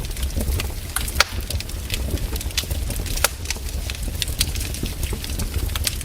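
Wood fire crackling, with irregular sharp snaps and pops over a low steady rumble; the loudest snaps come about a second in and a little past three seconds.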